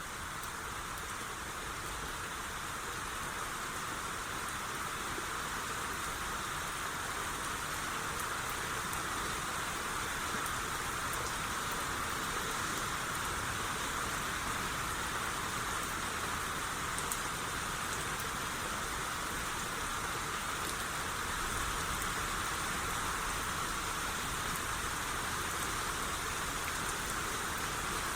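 Steady rain shower falling, an even hiss with faint scattered drop ticks.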